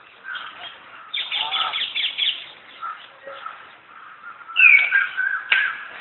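Birds chirping and chattering, with a dense run of quick chatter from about one to two and a half seconds in and a loud falling call near five seconds; a sharp click just before the end.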